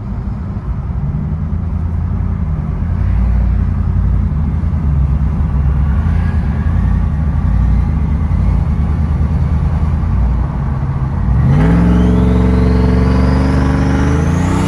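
Turbocharged Hemi V8 of a 2015 Ram 1500 with a rear-mount turbo, running with a steady low rumble, then accelerating hard about eleven seconds in: the engine note climbs and a high turbo whistle rises with it.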